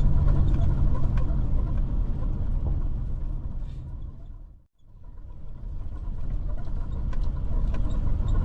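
Steady low rumble of a car's road and engine noise heard inside the cabin. It fades out to silence about halfway through and fades back in.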